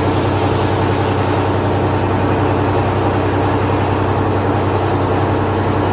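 Mi-8 helicopter's twin turboshaft engines and rotor running, a loud, steady drone with a low hum that does not change.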